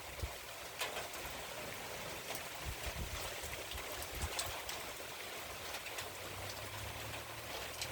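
Rain falling steadily, an even hiss dotted with small drop ticks, with gusts of strong wind rumbling on the microphone.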